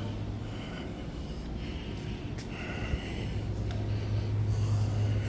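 Indoor store ambience: a steady low hum with faint background noise and a few light ticks.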